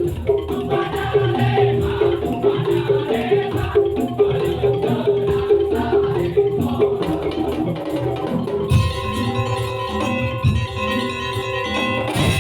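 Madurese daul (tong-tong) ensemble playing a percussion-led arrangement, with a quick rattling rhythm and ringing pitched tones over a low drum beat. About three-quarters through, the sound changes abruptly to a brighter passage with longer held tones.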